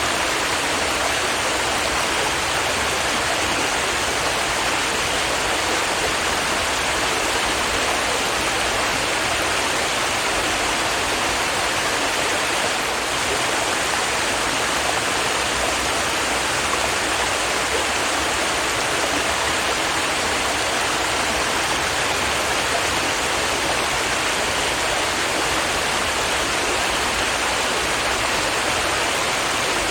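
Stream water flowing and babbling over rocks, a steady rushing sound with no change throughout.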